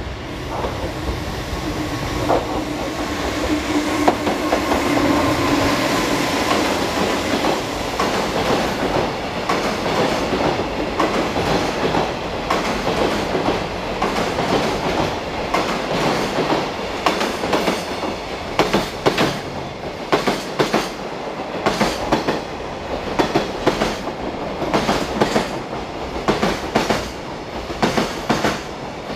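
A JR Freight EF200 electric locomotive passes with a humming tone in the first few seconds. A long string of container wagons follows, clattering over the rail joints in a steady clickety-clack. The clicks grow sharper and more spaced toward the end.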